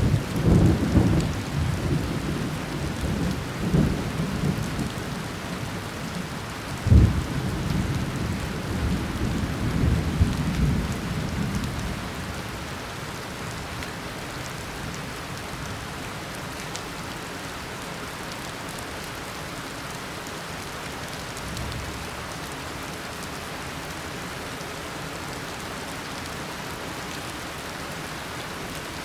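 Tropical downpour falling steadily, with a roll of thunder that breaks in suddenly and rumbles for about twelve seconds. A sharp loud clap comes about seven seconds in, then the thunder fades back to the rain, and a faint distant rumble follows later.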